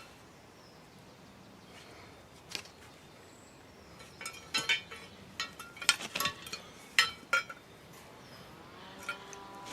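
A run of sharp clicks and knocks, some ringing briefly, from about four to seven and a half seconds in. A faint steady low tone comes in near the end.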